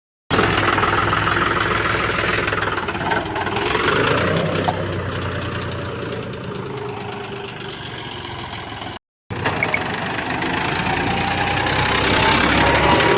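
Tractor engine running, louder around the fourth second, easing off, then revving up with a rising whine over the last few seconds. The sound breaks off abruptly for a split second twice, at the start and about nine seconds in.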